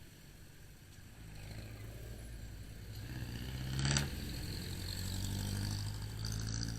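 Motorcycle engine running, getting louder from about a second in, with a short sharp clack about four seconds in.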